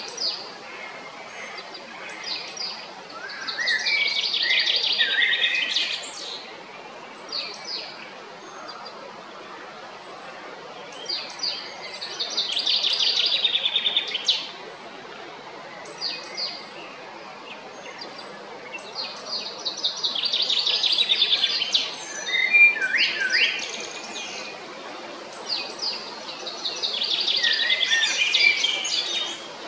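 A songbird singing in repeated phrases: four bouts of rapid, high trilled notes, each about two to three seconds long and ending in a few lower notes, with short single calls between them and a faint steady background hiss.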